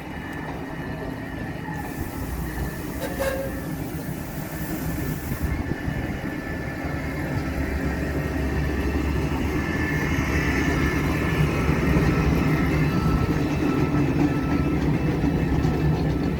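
Tren de Sóller vintage electric train running on the rails with a steady low rumble that grows gradually louder. A hiss sounds for a few seconds near the start.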